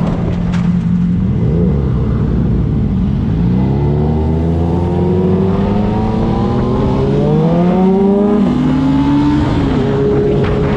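Motorcycle engine accelerating, its pitch rising steadily for about five seconds and then dropping away, over a steady low rumble.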